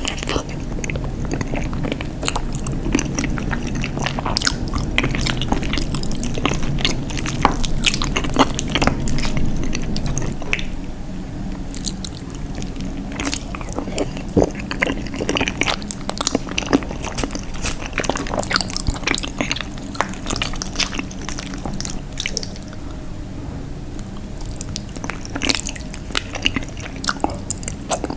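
Close-miked chewing and biting of cheese, with many short, irregular mouth clicks and smacks.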